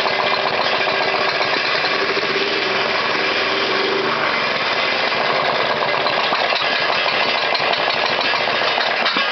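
11.5 hp Briggs & Stratton four-stroke engine running steadily just after a cold start, with a fast, even beat.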